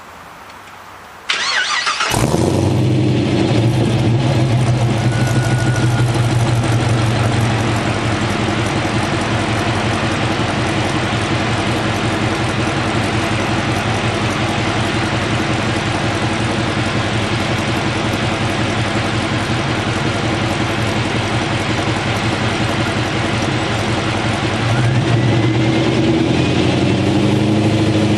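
Holden VZ Calais's 6.0-litre L76 V8 cranked on the starter, catching about two seconds in and settling into a loud, steady idle through headers, high-flow cats and a catback exhaust with no rear muffler. The idle gets slightly louder and changes note about 25 seconds in.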